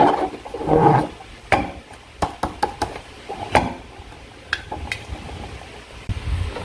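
Slime being squished and pulled by hand: two louder wet squelches in the first second, then a run of sharp sticky clicks and pops.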